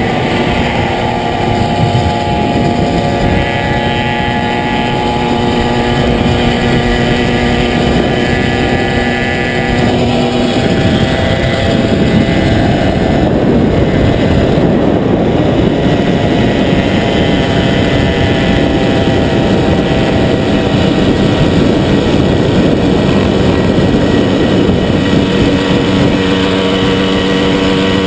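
Motorcycle under way at steady speed: a loud rushing of wind and road noise with the engine's steady note under it. The engine note fades about ten seconds in and comes back near the end.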